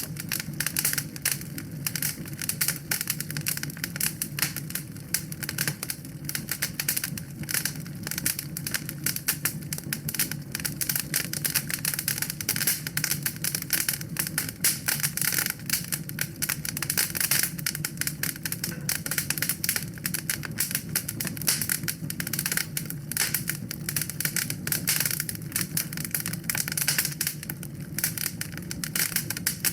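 Wood fire in a fireplace crackling steadily, with a dense run of small snaps and pops over a low, even rumble of the flames.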